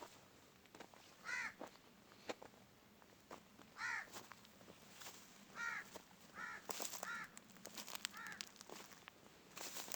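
A crow cawing, about six short harsh caws spaced irregularly, with footsteps crackling underfoot between them.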